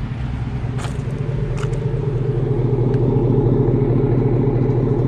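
2014 GMC Sierra's L83 5.3-litre V8 running through a Corsa Sport cat-back exhaust: a steady low rumble at an even pitch that grows gradually louder. Two light clicks come in the first two seconds.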